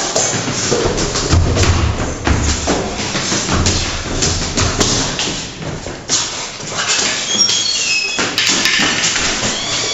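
A run of thumps and knocks with music underneath.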